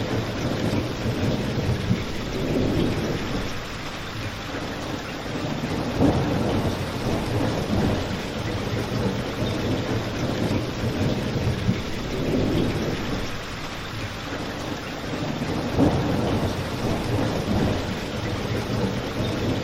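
Steady rain with a deep, low rumble that swells and ebbs every few seconds, mixed with a crackling fireplace that gives a few sharp pops.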